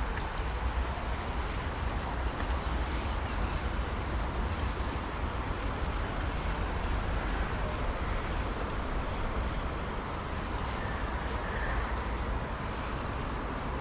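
Steady outdoor city ambience: a constant low rumble of distant traffic under an even hiss, with no distinct events.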